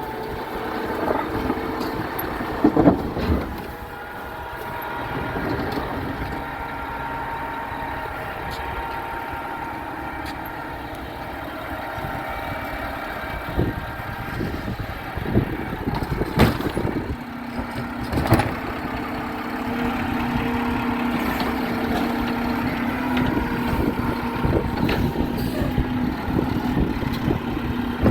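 Garbage truck engine running, with a few sharp knocks along the way; a steadier hum joins about two-thirds of the way through.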